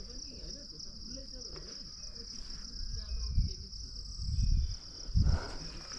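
Insects, crickets or cicadas, chirring steadily in one continuous high-pitched drone. There are faint short chirps in the middle and a few low bumps in the second half.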